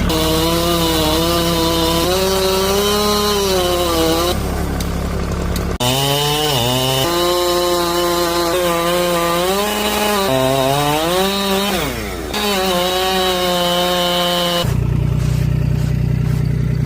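Two-stroke chainsaw cutting through a thick beech trunk, its engine note dipping and recovering again and again as the chain bites into the wood. About fifteen seconds in it settles to a lower, steadier note.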